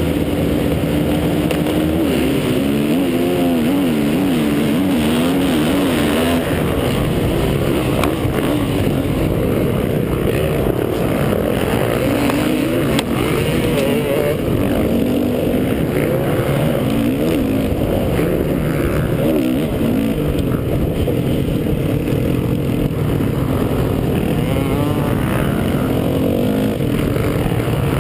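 Honda 450 motocross bike's single-cylinder four-stroke engine racing under hard throttle, its pitch rising and falling again and again as it revs.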